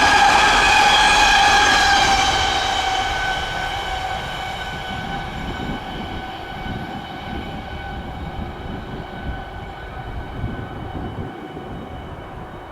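A train running past on the line and moving away, with a steady high whine over the rumble of the wheels. It is loudest at the start and fades gradually after about two seconds.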